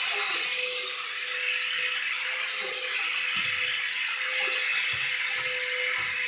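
Vacuum cleaner running steadily: a constant hiss of rushing air with a high, even motor whine.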